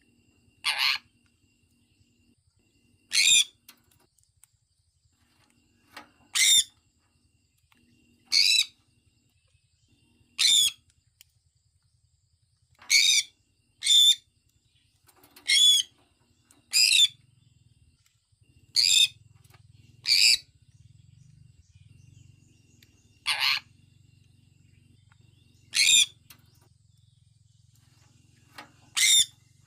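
Sun conure giving short, high-pitched calls, about fourteen in all, one every one to three seconds at an uneven pace.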